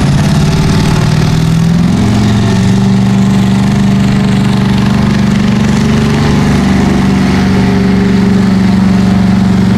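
A mega truck's big engine running loud at high revs, its pitch climbing about two seconds in and then holding steady.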